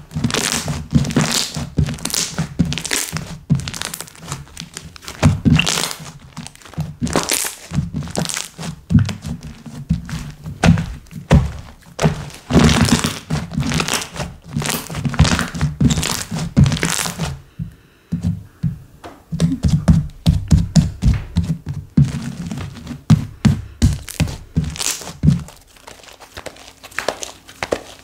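Slime being pressed, squished and poked by hand, making a quick run of soft thunks with crackling, crinkly pops; it lets up briefly about two-thirds through and turns lighter near the end.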